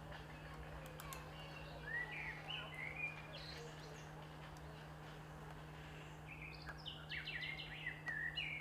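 Wild songbirds chirping and singing in short, quick notes, a bout about two seconds in and a busier one near the end, over a steady low hum.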